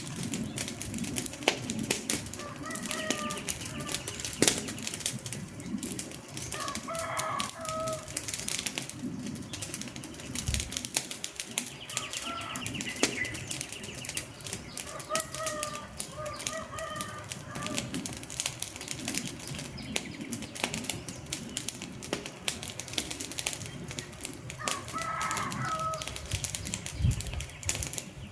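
Wood fire crackling, a steady run of irregular pops and snaps from the burning logs. A few faint short pitched calls come through in the background several times.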